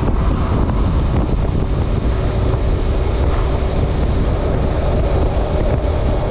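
Wind buffeting the microphone on a moving motorcycle, with the engine's steady drone underneath.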